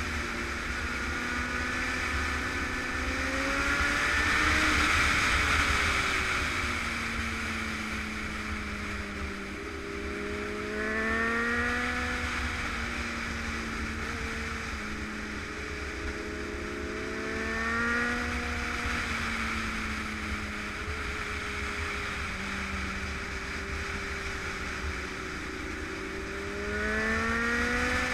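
Honda sport motorcycle's engine running under way, its pitch rising and falling with the throttle, with brief rising revs three times. Steady wind rush on the microphone throughout.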